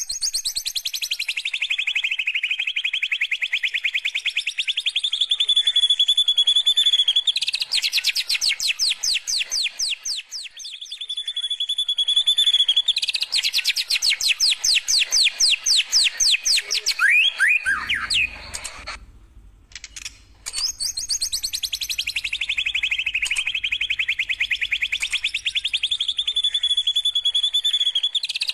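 White-rumped shama (murai batu) singing long canary-like trills: rapid repeated notes that slide down in pitch and settle into a steady fast roll, alternating with stretches of slightly slower, evenly spaced notes. The song stops briefly about two-thirds of the way through, then the same phrase starts again over a faint low hum.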